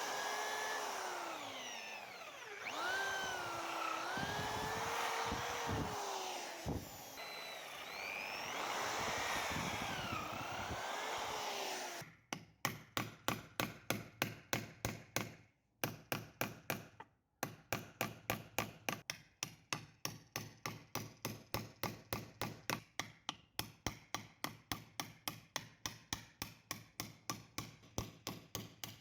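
A handheld power tool runs with its motor pitch dipping and rising under load, then stops about twelve seconds in. A steady run of sharp metal strikes follows, about three a second, each with a short ring.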